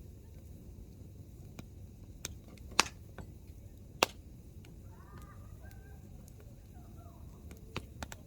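Hardwood campfire burning with a low steady crackle and sharp pops from the logs: two loud pops, a little under three seconds in and about four seconds in, and a few smaller ones near the end.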